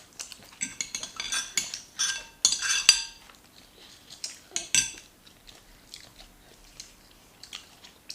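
Cutlery clinking and scraping against a plate during a meal: a busy run of clinks and scrapes in the first three seconds, a single sharp clink near five seconds, then only a few light taps.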